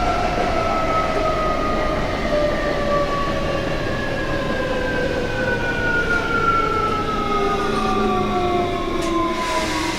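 Whine of a Tokyo Metro 07 series car's Hitachi full-SiC VVVF inverter and permanent-magnet traction motors, several tones falling slowly and evenly in pitch as the train slows, over the low rumble of the wheels on the track.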